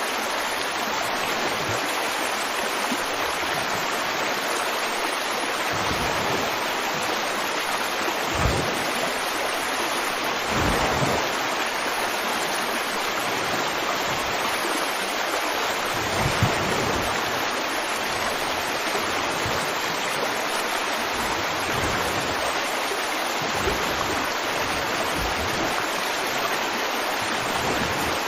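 River water flowing in a steady rushing wash, with a few brief deeper gurgling swells.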